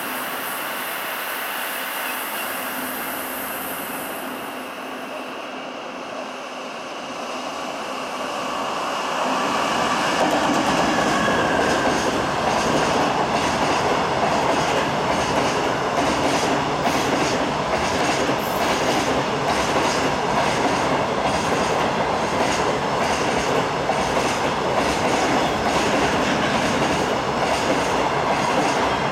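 Electric-hauled container freight train passing through at speed. About nine seconds in it grows much louder as the container wagons roll past, with a fast, steady clickety-clack of wheels on the track.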